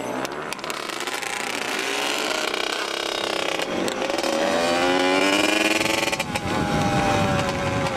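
Off-road vehicle engine revving under throttle, its pitch climbing several times with brief drops as the throttle is eased, once about four seconds in and again around six seconds in.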